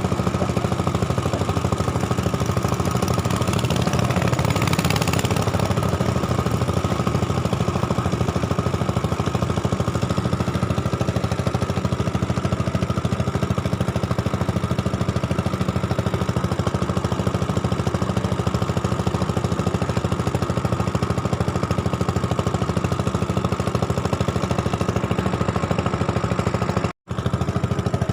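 Small engine running steadily with a fast, even chugging rhythm. The sound cuts out for a split second near the end.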